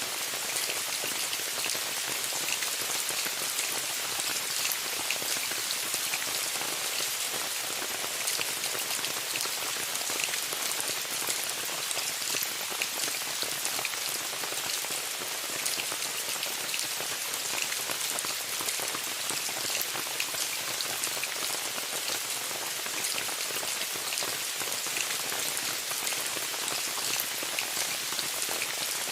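Steady rain pattering on a tent, a dense even hiss of many fine drop impacts.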